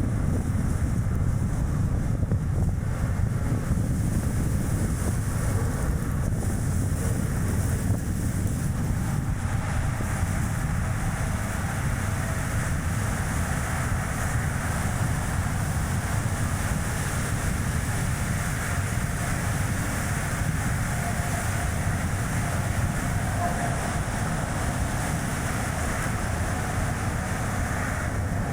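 Strong wind buffeting the microphone over the steady road and tyre noise of a Chevrolet Spark city car driving along.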